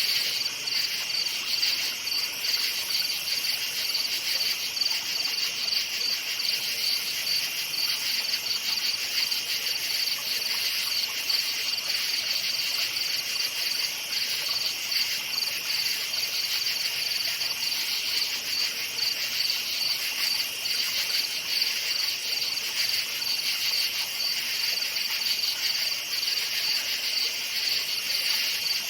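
A dense chorus of crickets chirping: a high, fast-pulsing trill at two pitches that goes on without a break.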